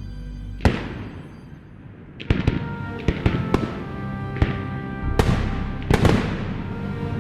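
Fireworks going off: one sharp bang under a second in, then a quick run of bangs with echoing tails from about two seconds in.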